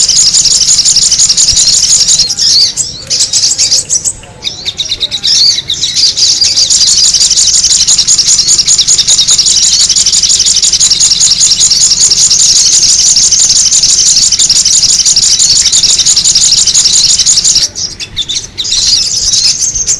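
Sogon bird lure call: a loud, unbroken stream of rapid, high-pitched chirping and chattering, the kind played to draw wild birds in. It thins out briefly twice, a few seconds in and again near the end.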